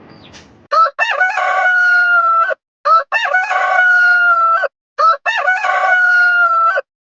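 Rooster crowing three times, each cock-a-doodle-doo about two seconds long, with short opening notes and a long held final note.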